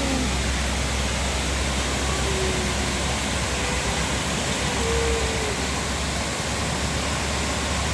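Steady rush of a waterfall, an even noise with a deep rumble underneath.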